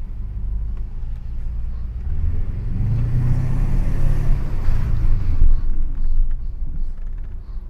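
1980 Mercedes-Benz 500 SE's V8 running through a muffler-deleted exhaust, a low drone that swells as the car accelerates from about two and a half seconds in, then eases off about five and a half seconds in.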